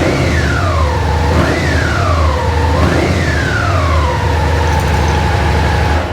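Suzuki SFV650 Gladius's 645 cc V-twin engine being revved: three quick throttle blips about a second and a half apart, each rising fast and dying away slowly. It then settles back to a steady idle.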